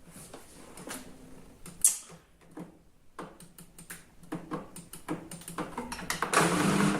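Washing machine mechanism ticking, clicking and creaking irregularly, with one sharper click about two seconds in. Near the end the motor starts and runs with a steady low hum.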